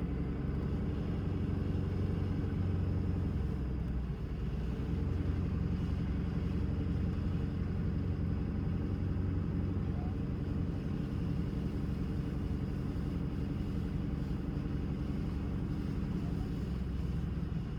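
Vehicle engine running steadily as it drives, a continuous low hum with road noise.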